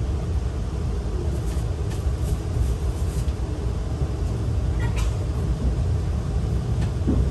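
Steady low rumble of the Saphir Odoriko, an E261-series electric train, running along the line, heard from inside the passenger car, with a few faint clicks over it.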